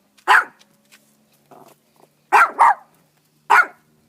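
A dog barking: four short, sharp barks, one just after the start, a quick pair about two and a half seconds in, and one more near the end.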